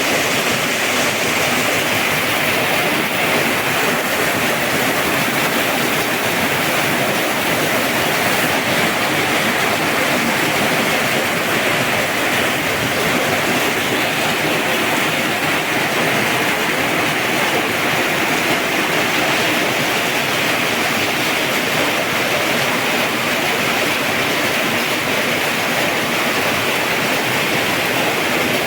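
Heavy rain from a strong storm pouring down steadily, without letup.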